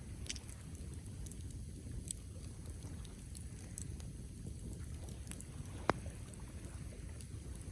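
Wood campfire burning with a steady low rumble and scattered faint crackles, and one sharp pop about six seconds in.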